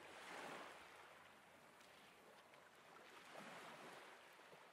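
Near silence: faint background ambience, a soft hiss that swells twice and then fades out near the end.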